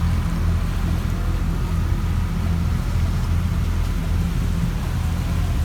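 Passenger boat's engine running steadily, a low pulsing hum, under a wash of water and wind noise.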